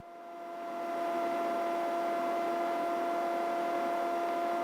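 Steady drone of an aircraft in flight, heard from inside the cockpit: a constant hum with a faint hiss, fading in over about the first second and then holding level.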